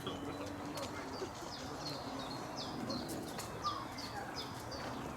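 A small songbird calling: a run of short high notes, each sliding downward, about two or three a second.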